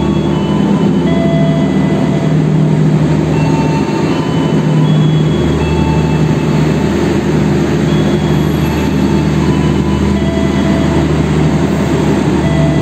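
Passenger train rolling slowly through a station behind a diesel locomotive, with a steady low engine drone. Short high wheel squeals come and go over it.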